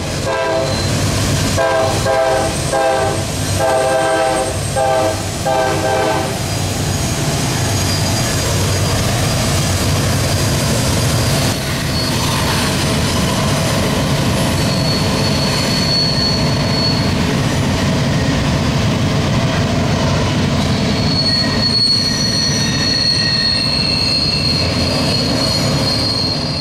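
Norfolk Southern diesel locomotives (GE C40-9W, C40-8W and an EMD SD50) hauling a westbound intermodal train pass with a steady low engine rumble. In the first six seconds the horn sounds a rapid string of short blasts, about two a second. From about halfway in, the wheels give out thin, high flange squeal on the tight curve, and it grows stronger near the end.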